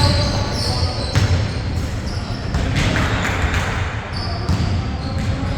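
Basketballs bouncing on a court floor during a game, a string of irregular thuds, with short high squeaks now and then.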